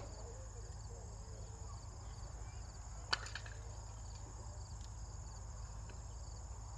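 Insects chirring in a steady, high, pulsing chorus over a low steady rumble, with one sharp click about three seconds in.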